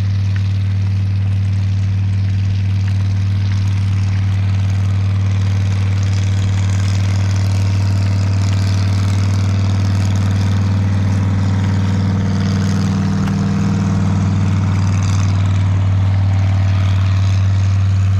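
Steady low mechanical drone, like an engine running at a constant speed, with a gusty hiss of wind over it.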